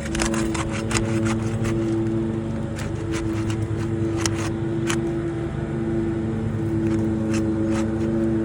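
A motor running steadily, its hum holding two steady tones over a low rumble, with scattered sharp clicks and crackles on top.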